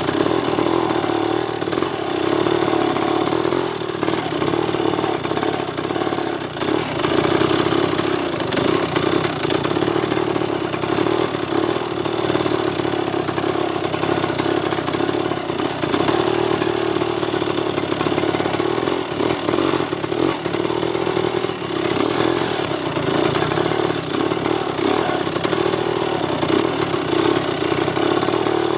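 A timber-hauling motorcycle's engine running steadily as the bike rides slowly along a rough dirt path.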